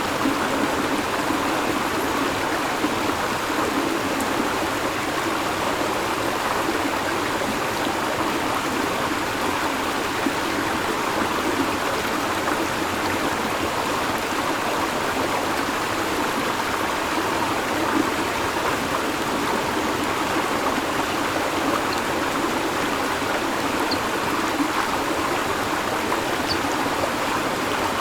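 River water flowing over stones, a steady rushing and babbling. Two faint brief high chirps come near the end.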